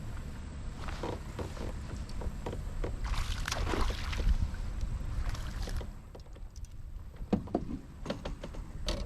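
Water sloshing and knocks on a fishing kayak over a steady low rumble, with two swells of splashing and a few sharp knocks near the end.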